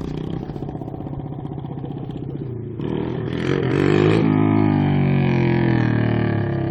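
Dirt bike engine running at low, steady revs, then revving up and accelerating about three seconds in. It is loudest a second later, then holds and slowly eases off in pitch.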